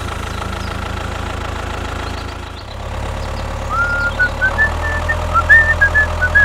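A small engine running steadily, with a brief dip about two and a half seconds in before it picks up again. Short, high whistling notes sound over it in the second half.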